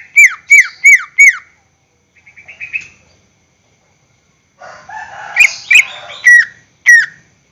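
Green leafbird (cucak ijo) singing: a run of loud, sharply falling whistled notes about three a second, a soft short trill, then a harsh, scratchy chattering phrase that ends in two more falling whistles.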